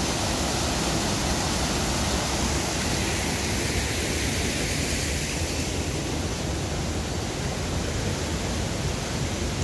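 Steady rushing noise, even and continuous, that loses a little of its hiss from about six seconds in.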